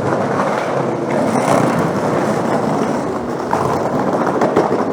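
City street noise: a steady rumble of wheels rolling over the street surface close by, with the general hubbub of a busy old-town street.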